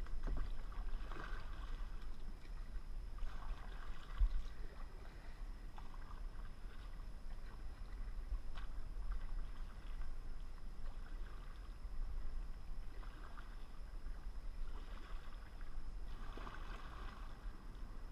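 Kayak paddle strokes: the blade dipping into the water with a soft splash every two seconds or so, over a steady low rumble.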